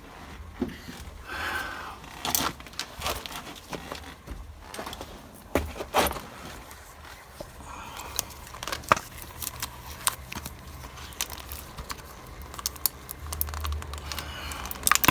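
Scattered clicks, taps and light rattles as ignition parts, spark plug wires and the distributor, are handled and moved by hand, with a few louder knocks.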